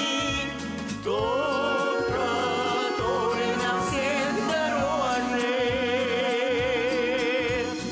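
Folk song with singing over instrumental accompaniment and a steady beat; long held notes with vibrato, with short breaks between phrases about a second in and near the end.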